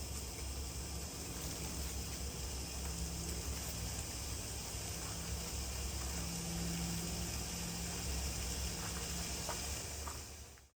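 Steady sizzling and hissing of food cooking, with a low hum underneath and a few faint ticks. It cuts off abruptly near the end.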